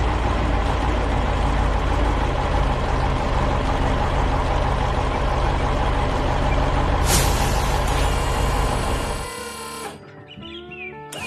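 Heavy truck engine sound effect running with a steady low rumble, with a loud hiss about seven seconds in. The engine sound cuts off about nine seconds in, leaving quieter gliding tones.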